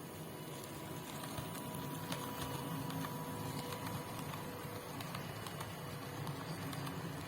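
HO-scale model train, a CC200 locomotive hauling cement wagons, running along the track: a steady small-motor whir with scattered light clicks from the wheels on the rails.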